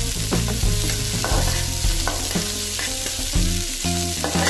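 Sliced onions and green chillies sizzling in hot oil in a kadai, with a spatula scraping and knocking against the pan as they are stirred. This is the onion-sautéing stage, frying toward brown.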